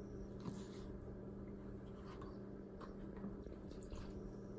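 Faint, scattered clicks and soft squishing of spoons stirring and scooping a thick baking soda paste in a bowl, over a steady low hum.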